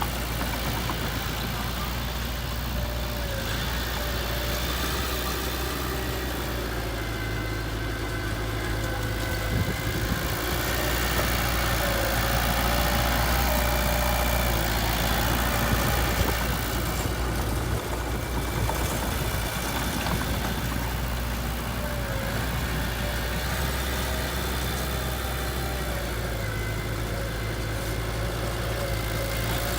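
Heavy machine engine running steadily, a little louder for several seconds in the middle.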